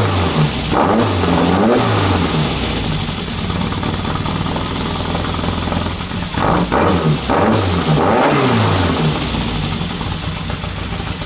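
1974 Volkswagen Super Beetle's air-cooled flat-four engine revved in quick blips, dropping back to idle, then blipped again several times about six seconds in before settling back to a steady idle.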